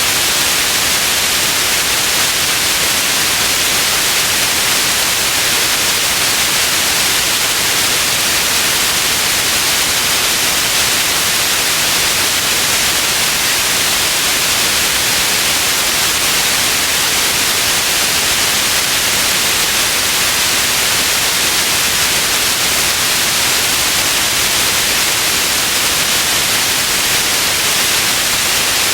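Steady white noise: an even, unchanging hiss weighted toward the high end, with no events or variation.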